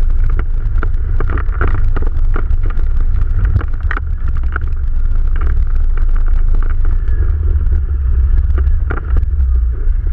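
ATV engine running while the quad is ridden along a forest track, under a heavy low rumble of wind on the microphone and scattered knocks and rattles.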